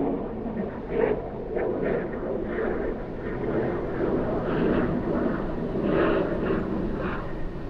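Car driving on city streets: a steady low rumble of road and engine noise, with short higher sounds coming and going over it.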